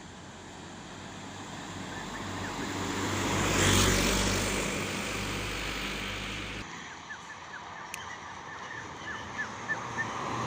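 A truck passing by on the road: engine and tyre noise builds to a peak about four seconds in, then fades away. After it, a run of short high chirps.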